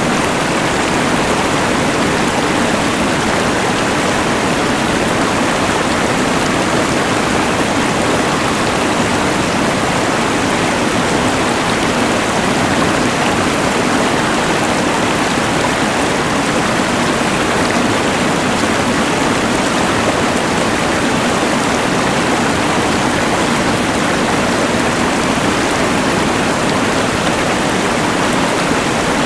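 Rushing mountain river water mixed with the steady hiss of a LectroFan white noise machine, forming an even, unbroken wash of noise.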